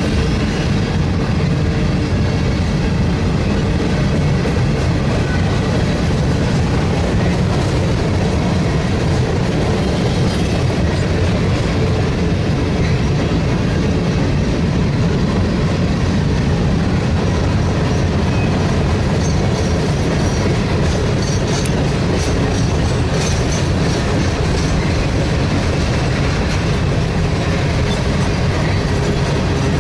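Freight train cars rolling across a steel railroad bridge: a steady, deep rumble of wheels on rail that doesn't let up.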